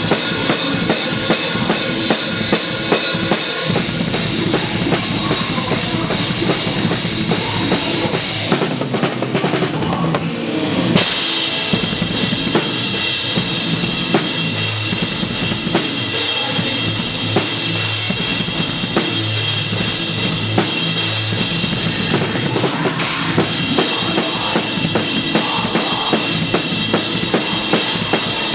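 Live band playing with the drum kit close and loud: bass drum, snare and a constant wash of cymbals. The cymbals drop out for about two seconds around nine seconds in, then come back in.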